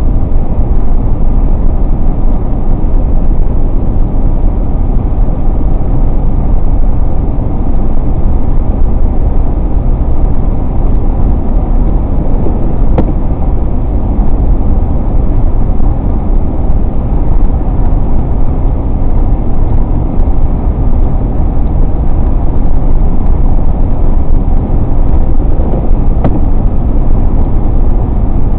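Steady low road noise inside a moving car: tyre and engine rumble, with one brief click near the middle.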